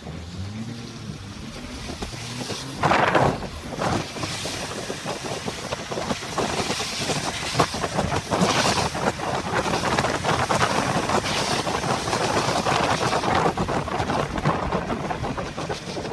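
A car driving through typhoon weather, heard from a dashcam: the engine rises in pitch over the first two seconds, then a steady rush of wind and rain against the car takes over, with several louder surges.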